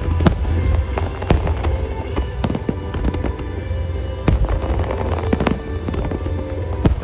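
Fireworks shells from a starmine bursting with sharp cracks and booms every second or so, over loudspeaker music that the display is timed to.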